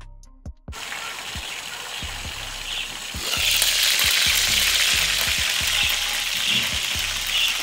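Lobster tails frying in a pan, a steady sizzle that starts suddenly about a second in. It gets louder about three seconds in, when the lid is lifted off the pan.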